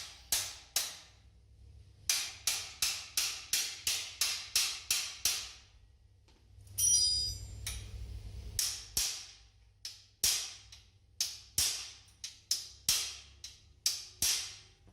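A series of sharp metal-on-metal taps, like a hammer striking a cylinder head part, running at about three a second for a few seconds and then more irregularly, with one ringing clang about seven seconds in.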